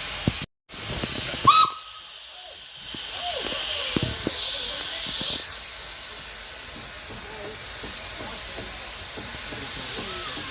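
Steam engine hissing steadily as it lets off steam, after a brief loud burst about one and a half seconds in.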